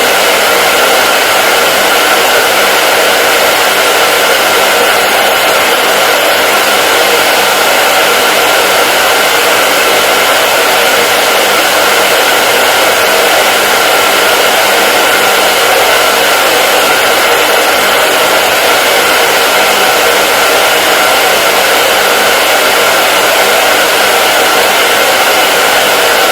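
Hair dryer blowing steadily, a constant loud whooshing hiss with a faint steady whine in it and no change in speed.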